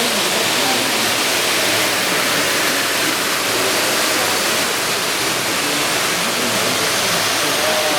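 A steady, even hiss that holds at one level throughout, with faint voices underneath.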